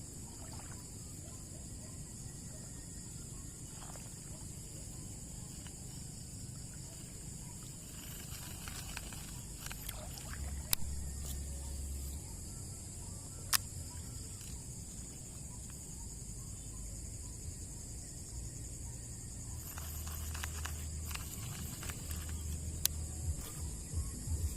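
Swamp ambience: a steady, high-pitched drone of insects, broken by a few sharp clicks and patches of low rumble.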